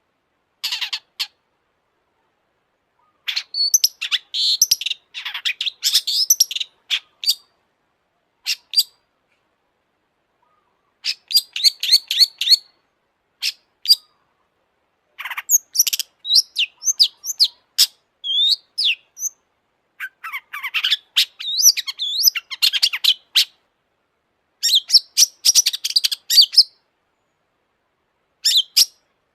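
Long-tailed shrike (cendet) singing in bursts of rapid, high-pitched chattering phrases, each a second or a few seconds long, separated by silent gaps.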